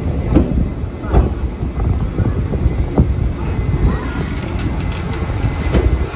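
JR 185 series electric multiple unit departing, its cars rolling past with a continuous low rumble and a few sharp knocks from the wheels.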